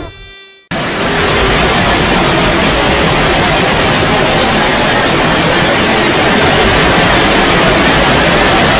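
A loud, steady din of many sound clips stacked on top of each other, so dense that it sounds like static or white noise. It cuts in abruptly under a second in, right after a short musical chord dies away.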